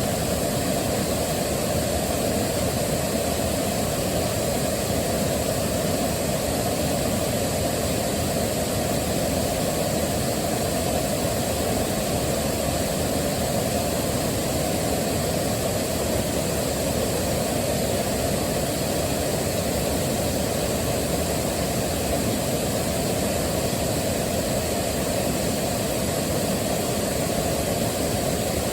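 Waterfall with water rushing steadily: an even, unbroken noise that is heaviest in the low end and does not change.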